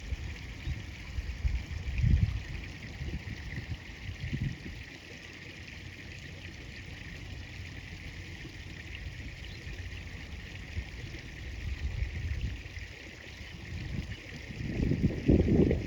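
River water flowing steadily, with low rumbling bursts about two seconds in and again, louder, near the end.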